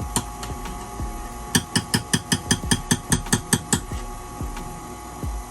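A metal spoon tapped quickly against the rim of a mixing bowl about a dozen times, roughly five taps a second, in the middle of the clip, knocking off strawberry pie filling. Under it runs the steady hum of a stand mixer, with a few single clicks before and after.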